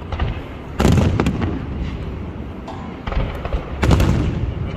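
Fireworks display: shells bursting with sharp bangs, a loud one a little under a second in and another near the end, with smaller cracks in between over a continuous low rumble.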